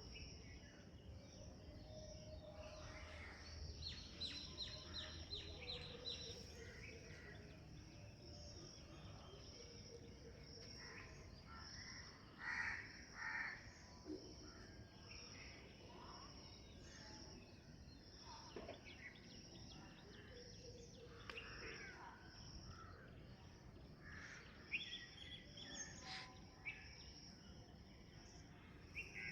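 Faint outdoor ambience: birds calling on and off over a steady high insect drone, with two louder calls about halfway through.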